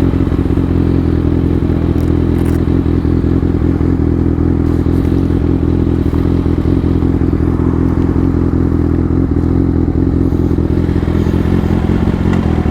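Motorcycle engine idling steadily at a constant, even pitch.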